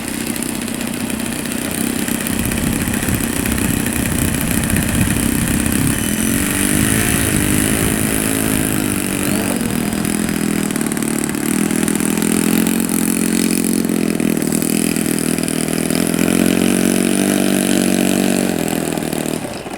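Saito .82 four-stroke glow engine of an RC model airplane running, its pitch rising and falling several seconds in, then holding steady.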